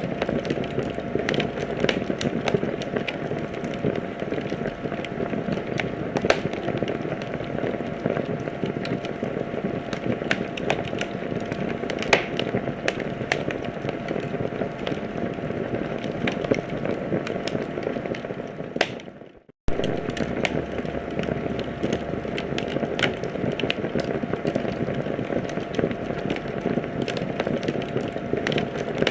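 Wood fire crackling in a fireplace: a steady hiss of burning with frequent sharp pops and snaps. About 19 seconds in, the sound fades out to silence for a moment and cuts straight back in.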